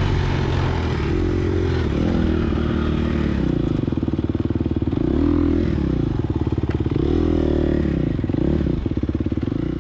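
Gas Gas EX250F four-stroke single-cylinder dirt bike engine under load in a race, its revs rising and falling again and again as the rider works the throttle and gears.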